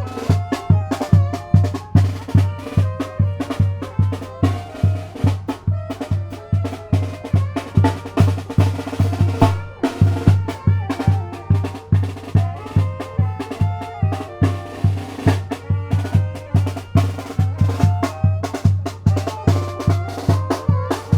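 Tamborazo band music: a bass drum (tambora) beating steadily about twice a second under snare strokes and a brass melody.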